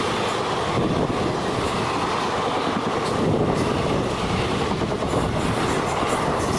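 Passenger coaches of an express train rushing past at speed close by: a steady, loud rumble and clatter of steel wheels on the rails.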